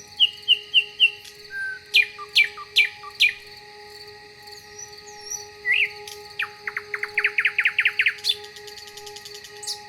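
Songbirds singing: a quick run of four short chirps, a few sharp downward-sweeping notes, then a fast trill that rises in pitch through its second half and breaks into a buzzy rattle near the end. Two faint steady tones hum underneath.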